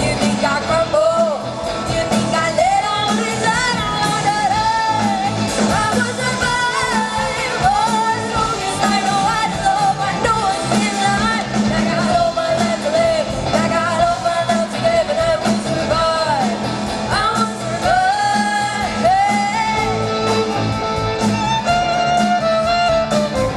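Live band playing a song with a lead singer; the voice carries a melody that glides up and down over steady band accompaniment.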